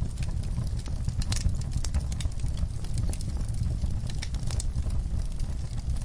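Fireplace fire crackling: frequent small irregular pops and snaps over a steady low rumble of the flames.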